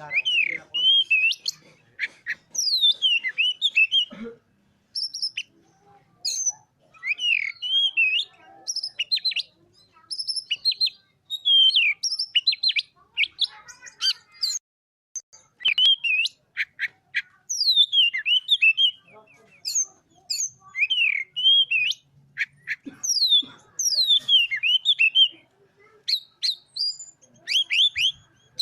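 Oriental magpie-robin (kacer) in full song: quick phrases of whistled, falling notes mixed with harsh and clicking notes, each burst lasting a second or two with short pauses between.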